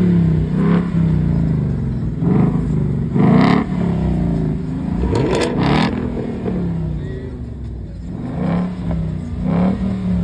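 A car engine being revved over and over, with short sharp blips whose pitch rises and then falls back between them.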